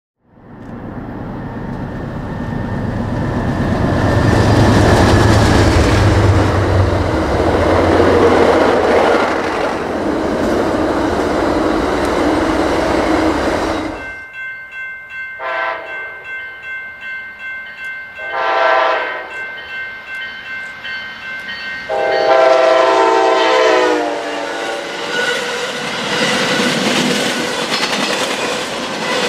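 A train running past with heavy rumble and rail noise. About halfway through it cuts off, and an Amtrak passenger train's air horn sounds three blasts, the last the longest, followed by the passenger cars rolling by with wheel clatter.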